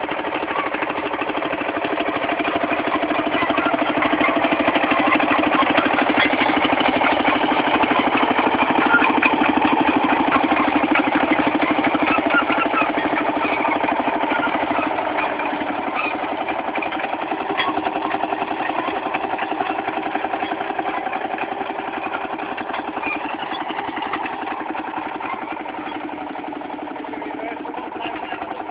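Fowler VF crawler tractor's single-cylinder two-stroke diesel engine running steadily while pulling a six-furrow plough. It grows louder over the first several seconds, then slowly fades.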